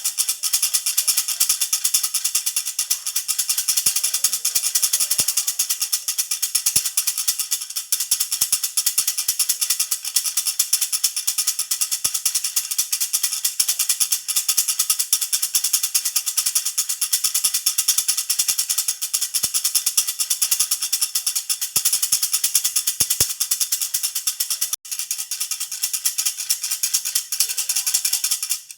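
Jhunjhuna baby rattle shaken without pause, a dense, high jingling rattle, with a momentary break near the end.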